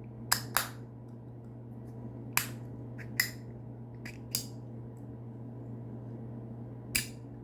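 Six or so sharp clicks and snaps of a small hard item being snapped open and shut on its detents, spaced a second or more apart, over a steady low hum.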